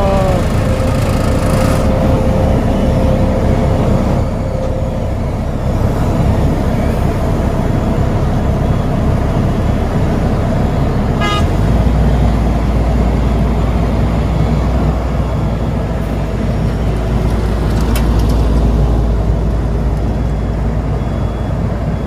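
Heavy diesel paving machinery running steadily, with a brief horn toot at the start. About halfway through a deeper engine note comes in and stays.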